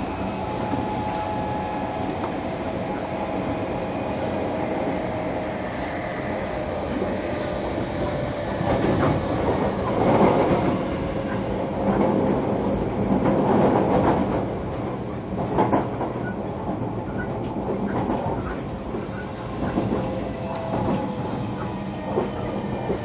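Ride noise heard from inside a JR Kyushu 305 series electric multiple unit's motor car running between stations: steady wheel and rail rumble with the faint whine of the VVVF-inverter-driven traction motors. Louder clatter from the wheels over the track comes and goes in the middle.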